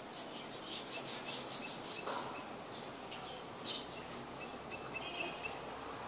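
Birds chirping in many short high-pitched notes, with one small note repeated about twice a second, over a steady background hiss.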